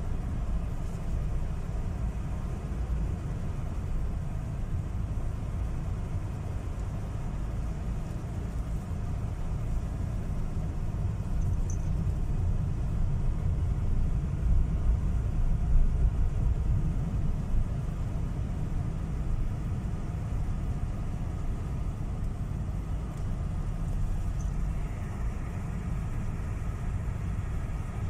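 A car driving on a gravel road, a steady low rumble of tyres and engine.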